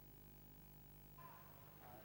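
Near silence: faint hum and hiss between segments.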